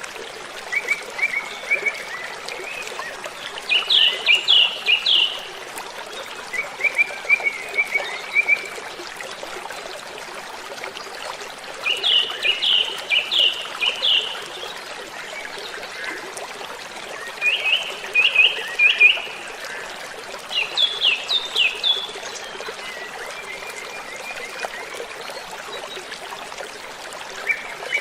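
Waterfall running with a steady rush of water, while a bird sings short phrases of four or five quick, falling whistled notes, repeated every few seconds, with softer lower twittering between them.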